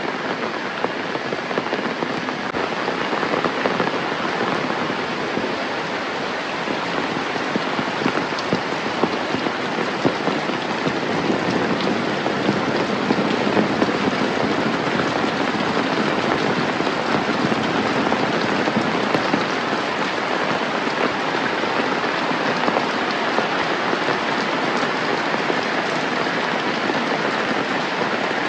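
Steady heavy rain falling, a dense hiss of drops with many individual drops ticking sharply on nearby surfaces.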